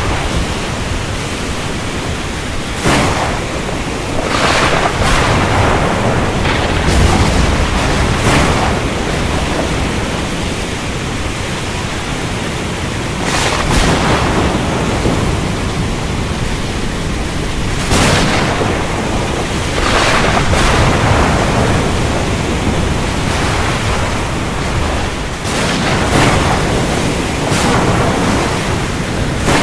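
Thunderstorm over the ocean: a steady wash of rain and sea noise with a deep rumble, swelling in gusty surges every few seconds.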